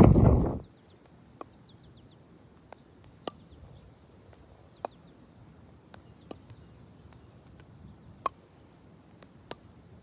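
Wind buffeting the microphone, cutting off abruptly under a second in. Then a quiet background with about eight scattered sharp clicks spread over the rest, and a few faint high chirps early on.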